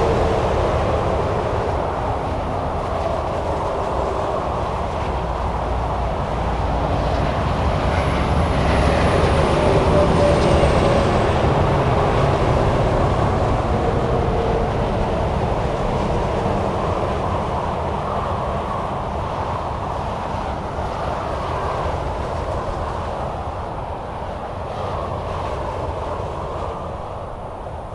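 Highway traffic: a continuous rush of tyre and engine noise from vehicles passing on a multi-lane highway, swelling to its loudest about ten seconds in and easing off toward the end.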